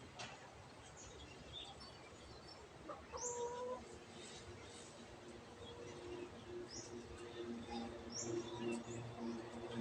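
Long-tailed shrike giving faint, scattered calls: short high chirps, and one held note about three seconds in. A faint low hum comes in from the middle and grows toward the end.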